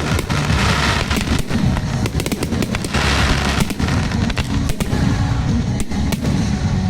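Fireworks display going off in a dense barrage: a rapid, continuous run of bangs and crackles over heavy low booming.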